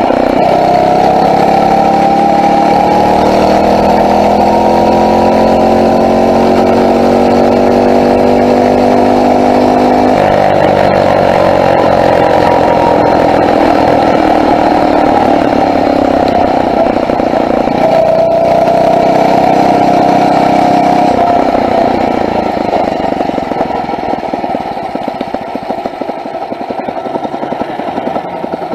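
Phatmoto four-stroke motorized bicycle engine running under load on the move, its pitch rising and falling with the throttle. Near the end it eases off and gets quieter.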